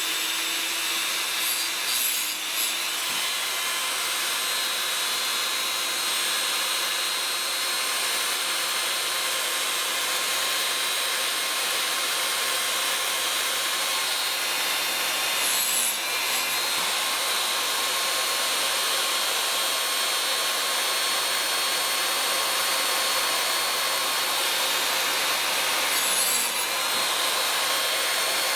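Small electric chainsaw-chain sharpener running with a steady high whine while its grinding wheel works the chain's teeth, with brief changes in the grinding about 2, 16 and 26 seconds in.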